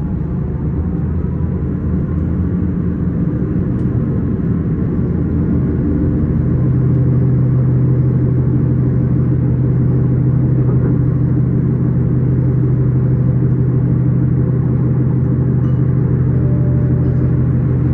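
S-Bahn train running: a steady low rumble, with a steady low hum coming in about six seconds in and holding as the sound grows a little louder.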